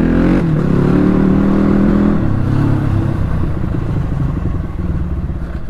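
KTM Duke 250 single-cylinder motorcycle engine running under way. Its pitch holds for about two seconds, then drops as the revs fall, and it runs on with a low, even pulsing.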